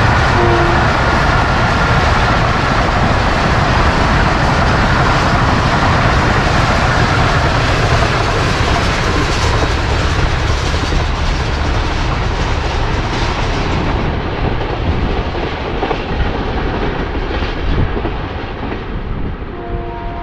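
Passenger express train running past at speed: a steady loud rush of wheels on rail and passing coaches, which gradually fades over the last several seconds as the train moves away.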